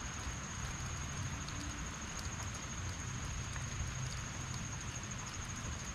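Heavy rain falling steadily: a constant hiss with scattered drops ticking close by, over a low rumble. A steady high-pitched whine runs through it.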